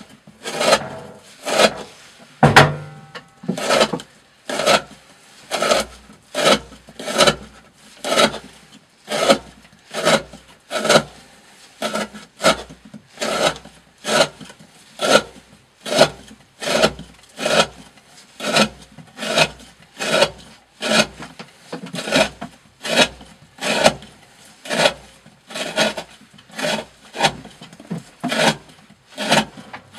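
Green Thorn Hati 95 D2-steel knife with a 40° edge slicing again and again through a 20 mm rope, a steady rhythm of short cutting strokes a little over one a second, as a rope-cutting edge-retention test.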